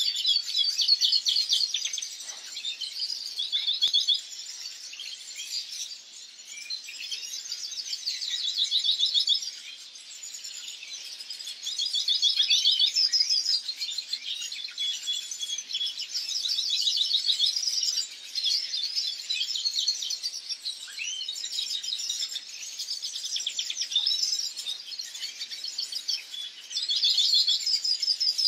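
European goldfinch singing: a long, unbroken run of fast twittering and trilled phrases, louder in stretches of a few seconds with softer passages between.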